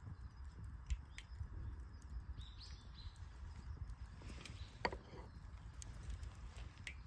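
Wood burning in a campfire, crackling faintly with a few sharp pops, the sharpest about a second in and again about five seconds in, over a low rumble.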